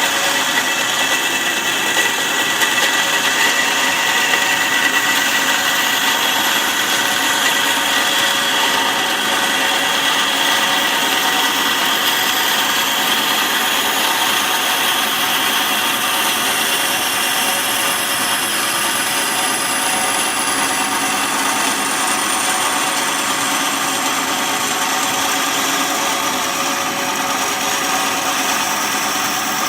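Bandsaw running and cutting slowly through a tobacco pipe blank along a marked line: a steady whir, with faint high tones that drift slowly in pitch.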